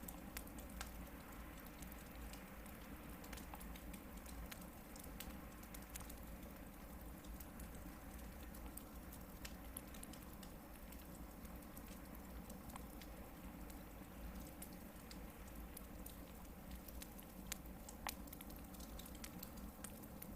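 Hardwood campfire burning, with a steady soft hiss and frequent small irregular crackles and pops, a few sharper pops near the end.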